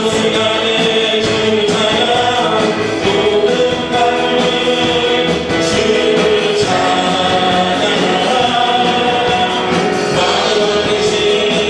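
Congregation singing a praise song together with band accompaniment, loud and continuous.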